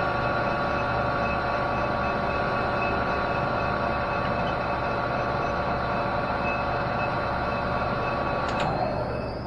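Metal lathe running steadily with a machine hum, switched off with a click near the end and winding down.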